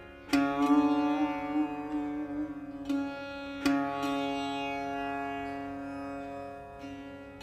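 Setar, the Persian long-necked lute, played slowly: three plucked notes, the first with a quick tremolo, each left ringing and fading away over several seconds.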